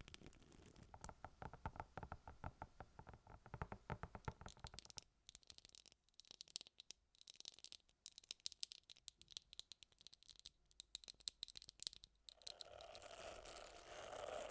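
Quiet, close-miked ASMR trigger sounds: many rapid, irregular small clicks and scratches. In the last two seconds or so they give way to a softer, steady brushing hiss.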